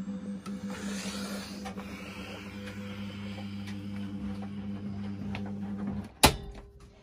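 Washing machine running with a steady electric hum and water noise, which stops about six seconds in and is followed by one sharp, loud click.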